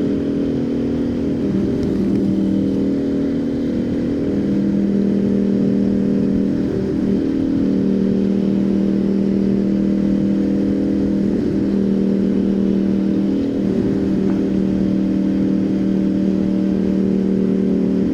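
Motorcycle running steadily at road speed, with a steady drone and road and wind rumble underneath; its pitch dips and rises slightly a few times.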